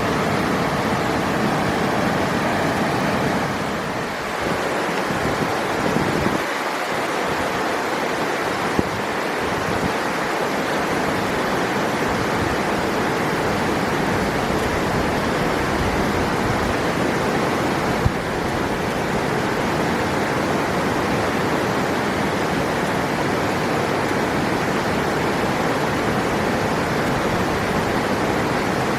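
River water rushing in a steady, even roar of flowing water, with a couple of faint clicks.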